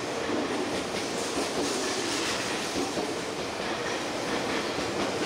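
Tokyu 5050 series electric commuter train pulling out of the station and rolling past the platform, with a steady running noise of wheels on the rails.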